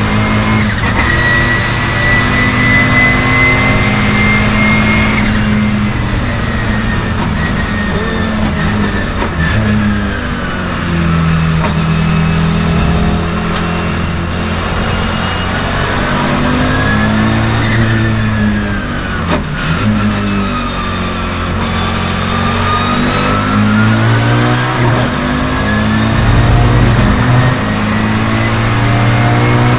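A 1989 Audi 200 Turbo Quattro race car's turbocharged 2.2-litre five-cylinder engine, heard from inside the cabin, accelerating and backing off repeatedly through a lap with brief breaks at the shifts. A high whine rises and falls with the revs.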